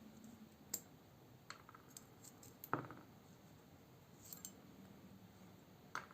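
Scattered light clicks and taps of a folding knife's small metal parts and tools being handled, with one fuller knock near the middle.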